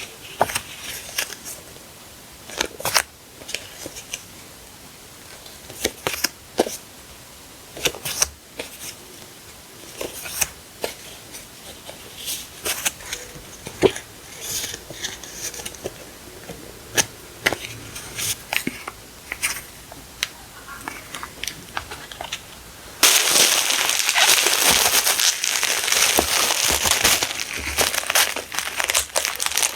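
Sticker packaging being handled, with scattered light rustles and taps, then, about two-thirds of the way through, continuous loud crinkling and crumpling.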